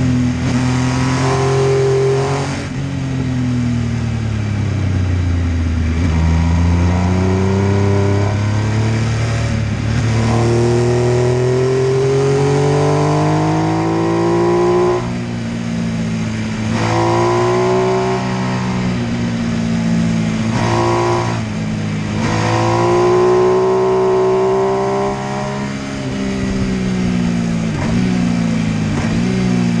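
MV Agusta F3 800's three-cylinder engine under repeated hard acceleration: the pitch climbs, breaks off sharply, then drops away, several times over as the bike accelerates and eases off along the road.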